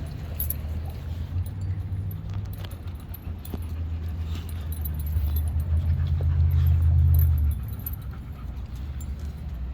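A dog making a low rumbling sound that swells and is loudest from about five to seven and a half seconds in, then drops away.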